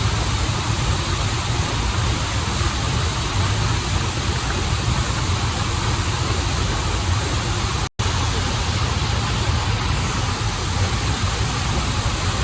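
Waterfall and stream water rushing in a steady, unbroken roar, with a split-second dropout about eight seconds in.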